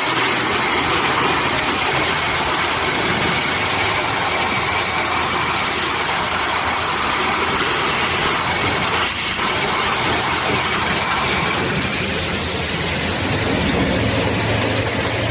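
Self-serve car wash high-pressure wand spraying: a loud, steady hiss with a faint whine from the wash's pump, rinsing degreaser off a vehicle.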